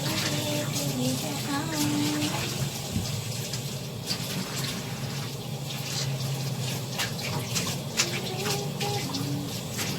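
Steady running water, like a tap running, with scattered sharp clicks and knocks, one louder knock near the end.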